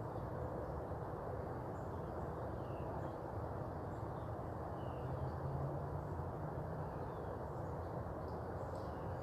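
Outdoor morning ambience: a steady low hum with faint, scattered bird chirps over it.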